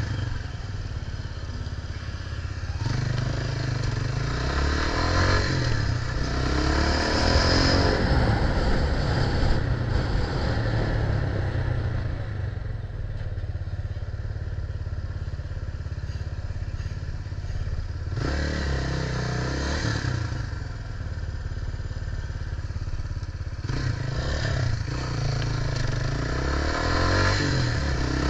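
Noise of a moving bike ride in street traffic: a steady low rumble with vehicle engine noise that swells and fades several times.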